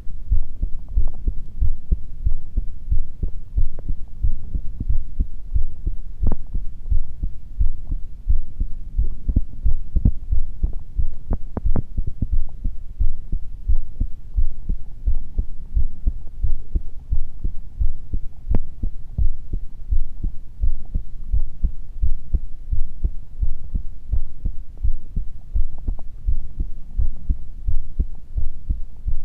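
A person's heartbeat: steady, regular low thumps.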